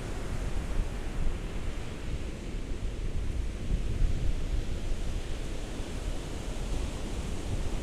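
Ocean surf washing steadily, a continuous rushing noise with a deep rumble beneath, its hiss swelling and easing slowly.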